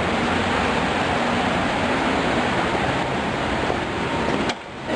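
Steady wind noise rushing on the microphone. Near the end it cuts out suddenly for a moment, with a couple of clicks.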